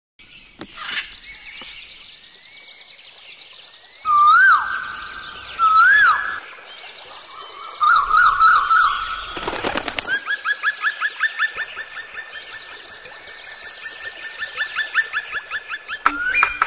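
Birds singing and calling: loud whistled phrases that swoop up and down, then a fast series of short rising notes, about four a second, repeated for several seconds. A brief loud noise cuts through just before the midpoint.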